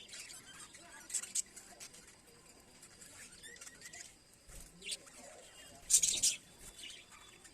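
Budgerigars chirping and chattering, with sharp, shrill bursts about a second in and again around six seconds in, and softer twittering between.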